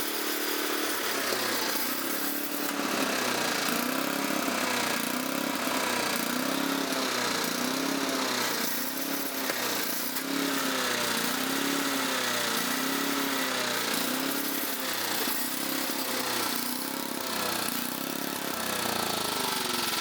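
MTD 8 hp chipper shredder's small gasoline engine running and hunting: its revs rise and fall over and over, about once every second or so. It is not running right, and the carburetor is due for cleaning.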